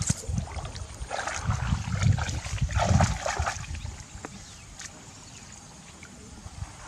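Water sloshing and trickling with scattered small knocks, busier in the first few seconds and quieter later.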